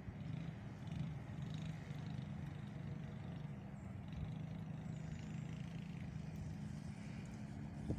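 Small engine running steadily at a fairly even speed, a rough low drone.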